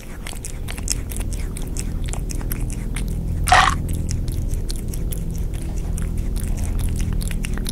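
Chewing and biting sounds, a dense run of quick wet clicks, over a low steady drone. A brief higher cry comes about three and a half seconds in.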